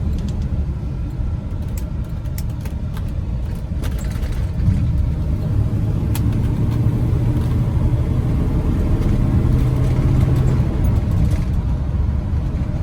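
The 1987 Chevrolet R-10 Silverado's 5.7-litre (350) throttle-body-injected V8 running through its dual exhaust, a steady low rumble that grows a little louder about five seconds in.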